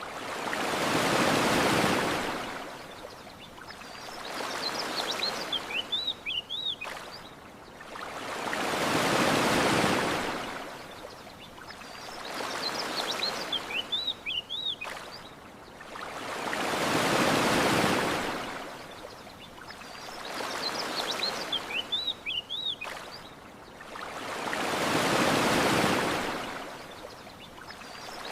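Gentle ocean waves washing up on a sandy shore. A larger wave rises and falls about every eight seconds, with a smaller one between, and a small bird chirps a few short notes in the quieter stretches. The same wave-and-chirp pattern repeats at even spacing, like a looped ambience track.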